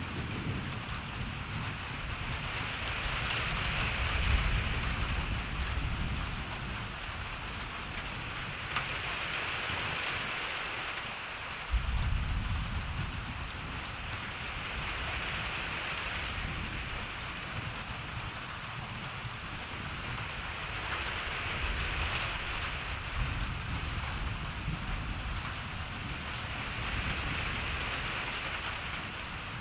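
Steady rain falling, its hiss swelling and easing every few seconds, over a low thunder rumble. A fresh roll of thunder starts sharply about twelve seconds in.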